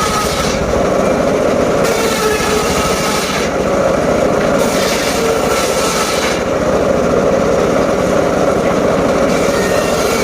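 Engine-driven mobile circular sawmill running steadily while its blade cuts teak logs, the cutting noise rising and falling every couple of seconds as the blade bites into the wood and eases off.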